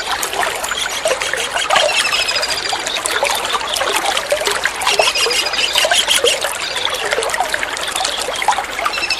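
Water trickling and splashing steadily with many small drips. Twice, a kingfisher gives a short, fast, high trill of repeated notes over it.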